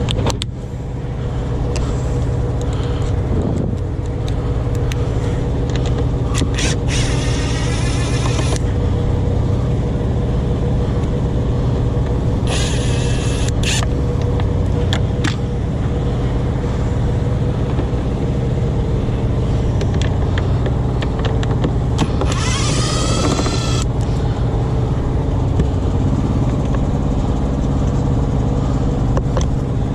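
A battery-powered drill/driver whirs in three short bursts as it spins out the air filter housing bolts, its pitch rising as the motor spins up. Under it runs the steady drone of an idling truck engine.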